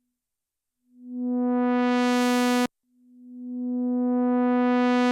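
Sequential analog synthesizer playing one held note twice at the same pitch, a bright buzzy tone whose filter sweeps open as each note swells in, the second swell slower than the first. The first note cuts off sharply about halfway through, and the second starts right after.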